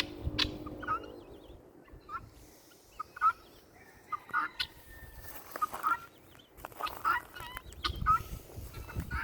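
Turkeys gobbling among other poultry: short bursts of calls come again and again, and a sharp knock sounds about three seconds in.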